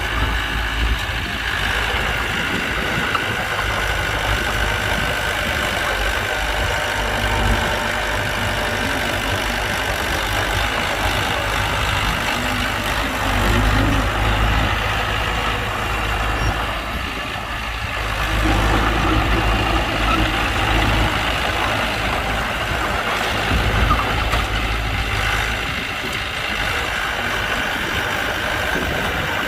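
Heavy diesel engine of earth-moving machinery running steadily, swelling louder about 13 seconds in and again from about 18 to 21 seconds.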